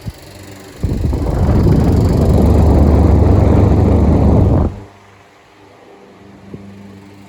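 Air from a 50 cm Delta Gold electric fan blowing straight onto the microphone: a loud rumbling rush that starts about a second in and cuts off suddenly almost four seconds later. The fan's motor hums steadily underneath.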